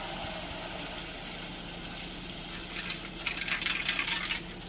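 Beaten eggs sizzling in a buttered skillet: a steady hiss. From about three seconds in come quick light taps and clatter.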